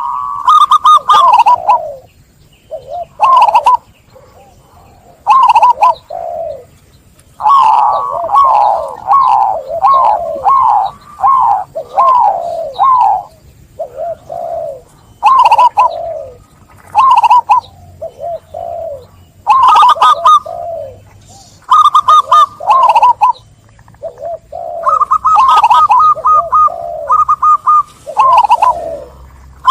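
Zebra dove (perkutut) cooing: repeated phrases of quick staccato notes that fall in pitch, with short pauses between phrases.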